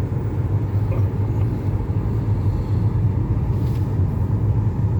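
A car driving at a steady speed, heard from inside: a steady low rumble of engine and road noise.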